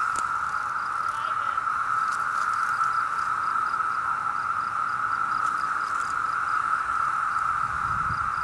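Chorus of Brood V 17-year periodical cicadas: a steady, unbroken howling drone of countless insects calling together.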